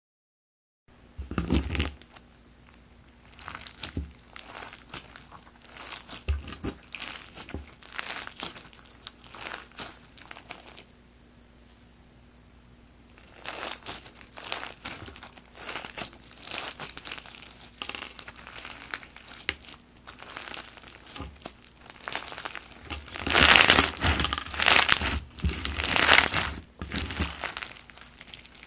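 Fishbowl crunch slime being squeezed and pressed by hand, the plastic beads in it crackling and popping in irregular bursts. The crackling pauses for about two seconds around the middle and is loudest near the end.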